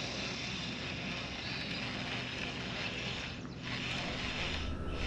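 Steady engine hum over wind and water noise, with a low rumble growing louder near the end.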